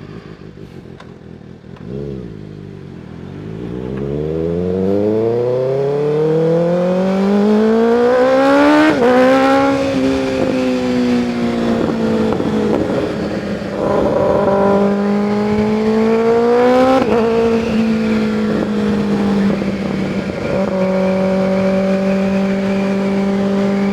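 Kawasaki ZX-6R 636 inline-four sport-bike engine pulling away from a standstill. Its pitch climbs steadily for several seconds, then it changes up through the gears about 9, 17 and 21 seconds in and settles at a steady cruise.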